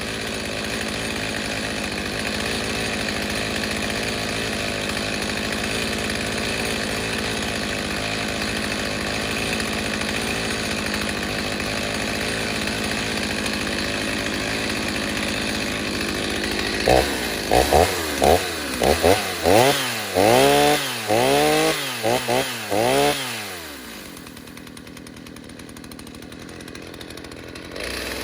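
Stihl 029 two-stroke chainsaw, freshly rebuilt with a 45mm cylinder and an opened-up muffler deflector, running steadily while it warms up. About 17 seconds in, the throttle is blipped in a quick run of about ten short revs. It then drops to a quieter idle and revs up again at the very end.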